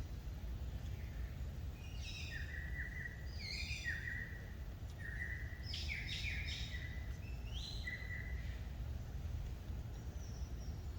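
A bird calling in a series of about six short phrases over several seconds, each a brief pitched note with higher overtones, above a steady low background rumble.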